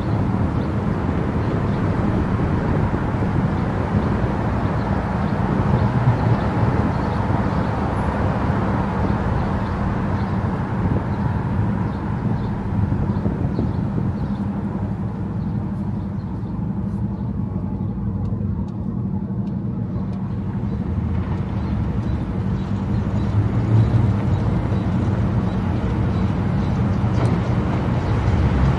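Car driving at speed on an expressway: steady road and engine noise, mostly low rumble. The hiss thins out for a few seconds in the middle.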